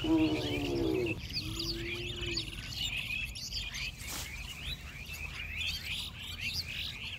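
Many small birds chirping busily and repeatedly, short quick calls overlapping throughout. In the first second a louder pitched call stands out, followed by a held lower tone that ends about two and a half seconds in.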